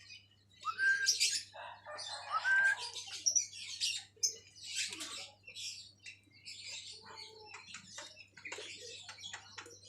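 Black-winged starling (jalak kebo) calling: harsh, raspy chattering calls broken by a few short rising whistles.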